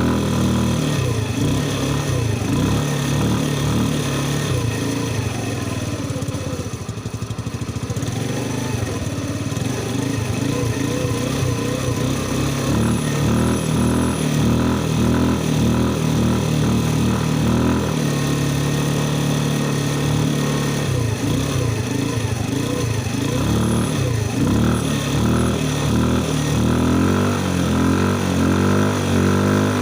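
A Mustang's engine being revved over and over, its pitch rising and falling, with a steadier stretch past the middle.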